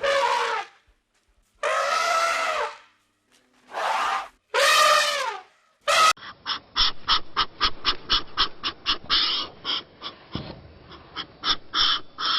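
Animal calls: four drawn-out, horn-like calls, each falling in pitch at the end. About halfway through, a different animal's rapid pulsing call or chatter takes over, about five pulses a second.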